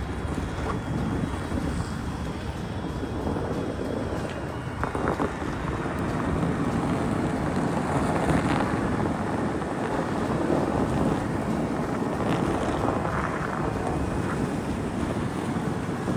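Wind rushing over the microphone: a steady, noisy rumble with a few faint knocks.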